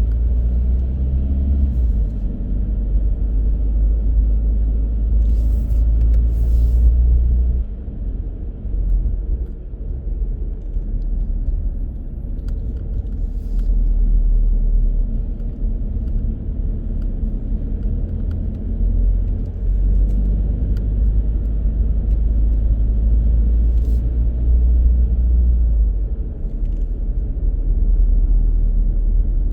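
A car driving: engine and tyre noise make a steady low rumble, with an even engine note over the first quarter that eases off for a moment.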